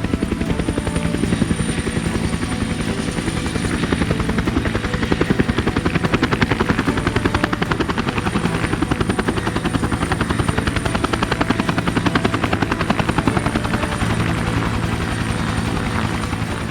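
Helicopter running steadily: a fast, even rotor chop over an engine hum, with a thin high-pitched whine.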